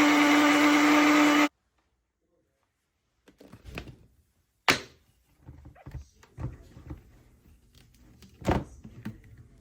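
A loud steady hum with a strong low pitch that cuts off suddenly after about a second and a half; then, after a silent pause, a series of scattered knocks and thunks, the sharpest about five seconds in and another near the end.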